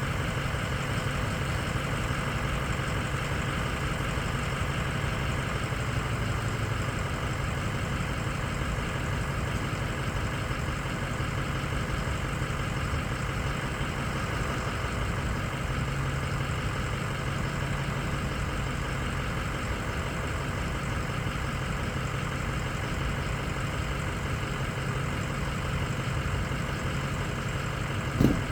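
A vehicle engine idling steadily, with one short thump just before the end.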